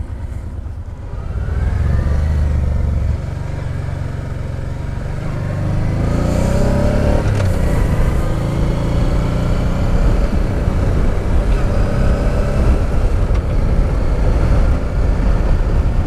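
Honda Deauville motorcycle's V-twin engine accelerating under way, its revs rising, dropping back about three seconds in, then climbing again.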